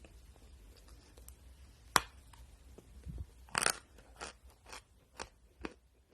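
A piece of natural edible chalk bitten off with one sharp snap about two seconds in, then crunched between the teeth in a run of chews, about two a second, getting quieter toward the end.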